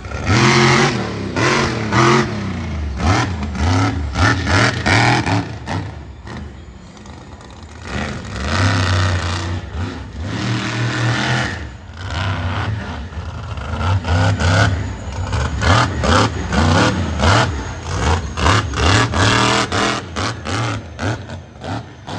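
Monster truck engine revving hard over and over, its pitch repeatedly climbing and dropping as the throttle is blipped and held. Sharp bangs and cracks cut through the engine noise throughout.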